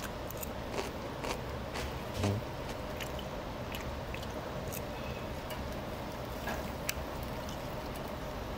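A person chewing grilled lamb, with a few light clicks of chopsticks against the dishes, over a steady background hum.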